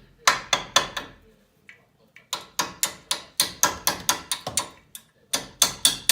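Repeated hammer blows on metal, about three to four a second, in runs broken by short pauses, as a seized brake caliper guide pin on a Volkswagen T4 front brake is being driven out.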